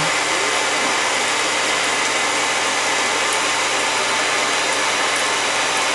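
Shower spray running steadily into a bathtub, a continuous even rush of water.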